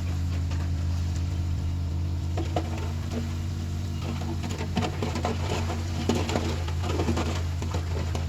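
Heavy diesel machinery engine running steadily at low revs, an even low hum with a few light clicks and knocks.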